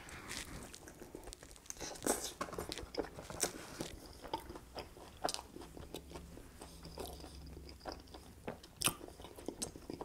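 Close-miked biting and chewing of a sauce-coated fried chicken tender, with many short clicks and crackles of mouth and food throughout.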